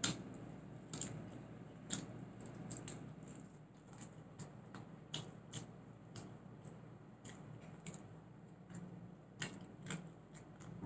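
Close-miked chewing and mouth sounds of someone eating chicken wings and meatballs: irregular short clicks, roughly one or two a second, over a faint low hum.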